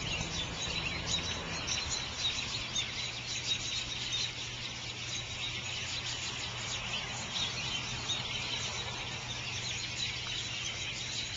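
A large flock of birds chattering and calling continuously, many short calls overlapping at once.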